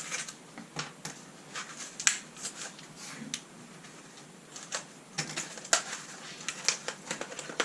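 Irregular clicks and light clinks of repaired Leslie speaker back caps being handled and set down one after another, metal parts knocking on each other and on a surface.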